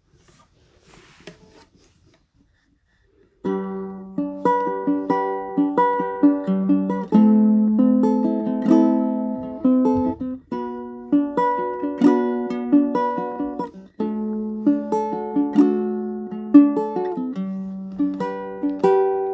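A plucked string instrument playing a picked instrumental introduction, one decaying note after another. It starts about three and a half seconds in, after a brief faint rustle.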